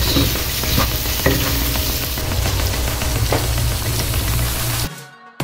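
Whole shrimp sizzling in butter and Cajun sauce in a nonstick wok, stirred with a wooden spatula that scrapes and taps against the pan. The sizzling fades out near the end.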